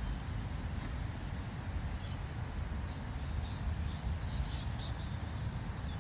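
Outdoor background: a steady low rumble, with a few short faint high chirps or squeaks about a second in and again around two and four seconds.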